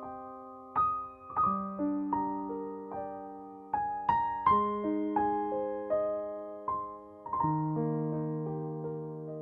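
Background music: slow, gentle piano playing single notes over held chords that ring and fade.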